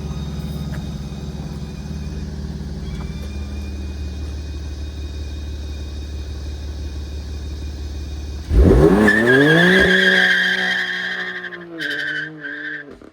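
BMW launching on launch control: the engine holds steady revs for about eight seconds, then the car launches with a sudden sharp climb in revs and tyre squeal, fading away as it pulls off.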